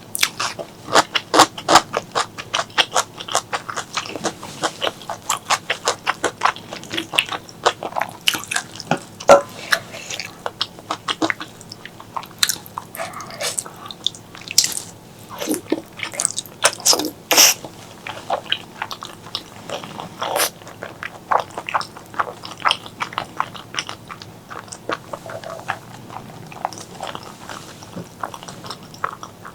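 Close-miked chewing and mouth sounds of someone eating spicy pork leg curry with white rice: a dense, irregular run of wet smacks and clicks, several a second.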